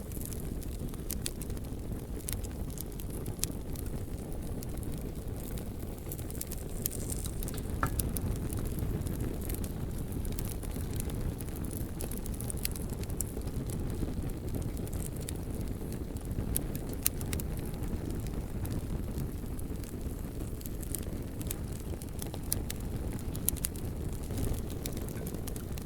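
Bonfire of burning logs crackling: scattered sharp pops and crackles over a steady low rumble.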